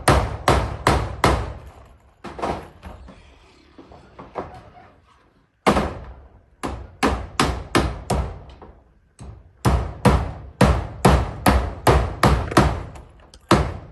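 Hammer driving nails into zinc roofing sheets: quick, even strikes about two to three a second, thinning to a few scattered blows for a couple of seconds, then starting up again and running on steadily.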